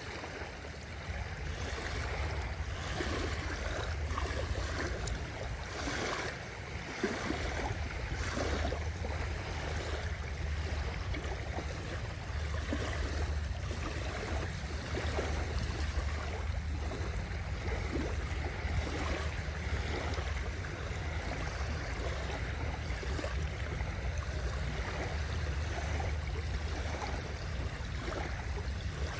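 Small sea waves lapping and splashing at the water's edge in a continuous, irregular wash, over a steady low rumble.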